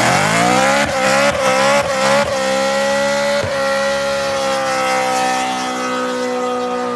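Car engine revved up and held at high rpm, its pitch steady after the climb with a few brief stutters in the first seconds, then cutting off near the end.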